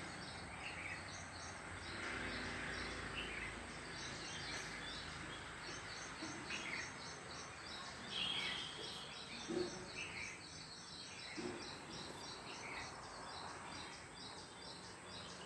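Small birds twittering: many rapid, high chirps repeating throughout, with a few louder downward-slurred calls every second or two over a faint steady hiss.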